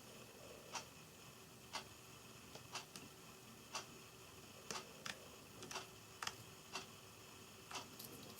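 Short, sharp clicks of a Java sparrow's beak pecking and snipping pea sprouts, at an uneven pace, over a clock-like tick that comes about once a second.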